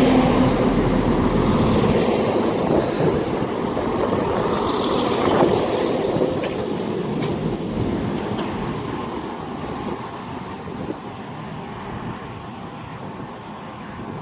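ScotRail Class 170 Turbostar diesel multiple unit pulling into the platform and slowing to a stand. It is loudest at first and dies away steadily, with a steady hum at the start and a brief squeal about five seconds in.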